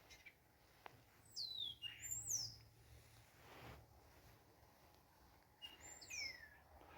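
Faint bird calls: two short bursts of quick, falling whistled chirps, one a little over a second in and one near the end.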